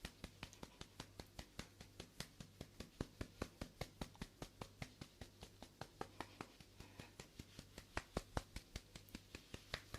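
Soft, even tapping, about five taps a second, kept up steadily: ASMR mock back-pounding massage taps.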